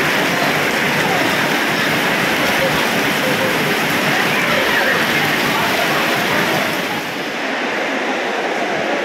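Steady rain falling, a loud, even wash of noise, with faint voices murmuring underneath. The hiss thins out about seven seconds in.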